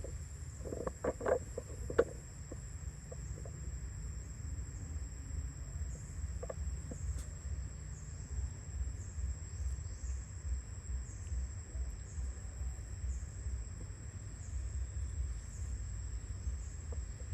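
Steady high-pitched drone of crickets or similar insects over a low rumble. A few short sounds come about a second in, then a sharp click about two seconds in.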